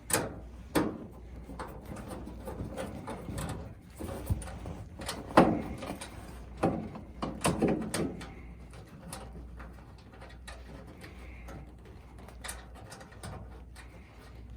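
Scattered clicks and knocks of screws being worked out of a dryer's sheet-metal panel with a hand tool and handled, busiest about five to eight seconds in, over a faint low hum.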